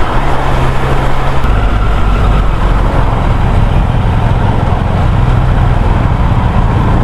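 Triumph Street Triple 765R's inline three-cylinder engine running while riding, under a steady rush of wind and road noise. The engine note changes about a second and a half in.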